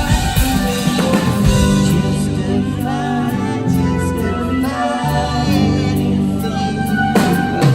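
Live rock band performing, with sung notes held over the instruments and drum hits near the start and again near the end.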